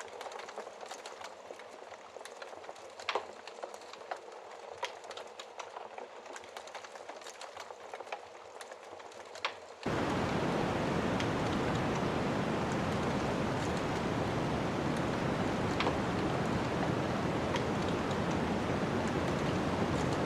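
Wood fire crackling, with scattered sharp pops over a soft hiss. About ten seconds in it cuts suddenly to a loud, steady, even rushing noise of snowstorm wind.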